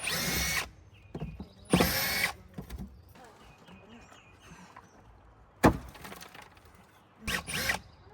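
A power drill run in three short bursts, backing screws out of the playhouse's wooden boards, with one sharp wooden knock a little past the middle.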